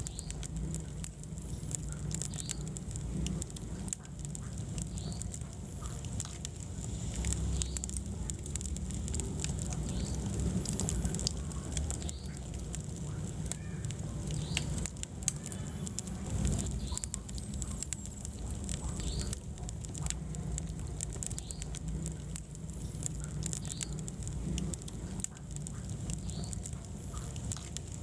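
Wood fire burning in a fireplace: a steady low rumble of the flames with frequent small crackles and pops, and occasional short high squeaky whistles.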